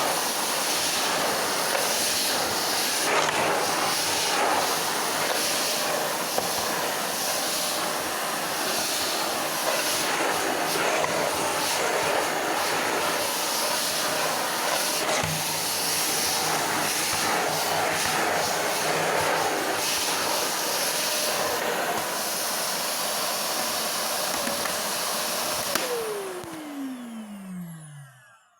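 Hoover 700 W vacuum cleaner running with a steady rushing hiss of suction. Near the end it cuts off, and its motor whine falls in pitch as it winds down.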